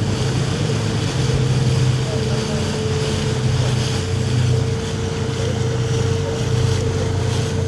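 Whale-watching boat's engine running steadily, a low drone with a constant hum tone above it, with wind on the microphone.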